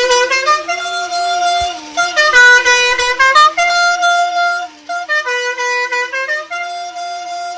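Musical horn on a chopper motorcycle playing a multi-note tune: loud pitched horn tones stepping between notes over a steady lower drone, stopping abruptly at the end.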